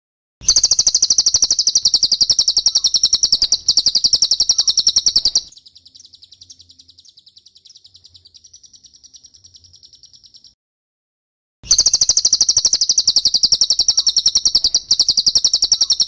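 Cililin song: a very fast, high-pitched chattering trill, loud for about five seconds, then softer for another five. It breaks off into a pause of about a second, then the loud trill starts again near the end.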